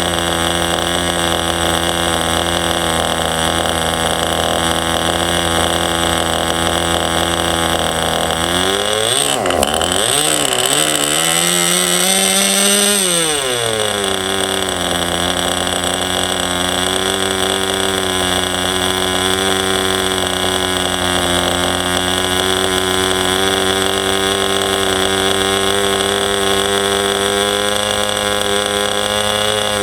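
Enya .15CX two-stroke glow engine running steadily. About eight seconds in it speeds up, its pitch climbing and wavering, then drops back to a steady speed around fourteen seconds. It is running with three washers under the glow plug to lower its high compression.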